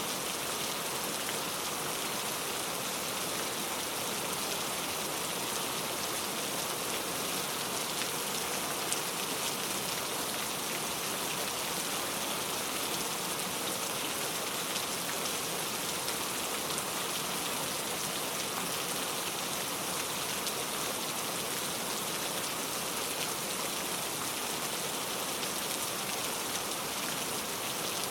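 Steady heavy rain falling and pattering on a surface, an even hiss of drops with no thunder.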